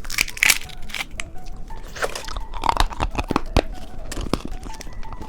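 Candy crunching and crackling, with an irregular run of sharp, crisp clicks and a few short louder crunches.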